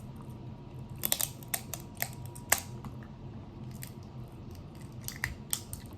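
Crab leg shells being cracked and snapped open by hand while eating: sharp, irregular cracks and clicks, bunched in two spells.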